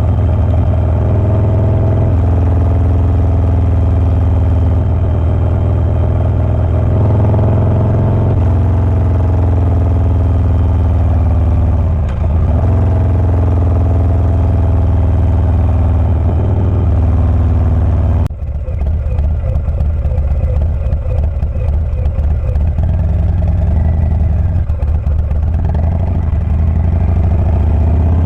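Harley-Davidson Low Rider S 117 V-twin with a Wood Performance 777XE cam, running loud under way, its pitch stepping and gliding up and down as it is throttled through the revs. About two-thirds of the way in it drops off suddenly to a rough, choppy lope, then climbs again near the end.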